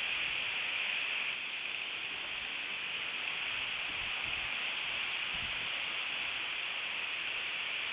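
Steady hiss of strong wind on an outdoor microphone, with a few faint low rumbles from gusts.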